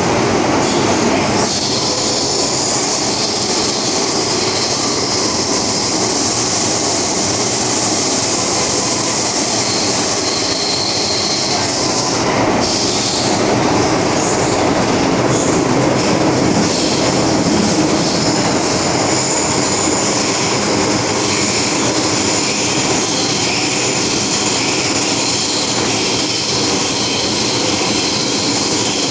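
MTR M-Train metro train running at speed, with a steady rumble of wheels on track and high-pitched wheel squeal that comes and goes.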